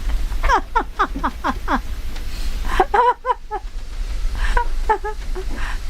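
People's voices exclaiming and laughing, with a quick run of falling-pitch cries in the first couple of seconds and more later, over a steady low rumble.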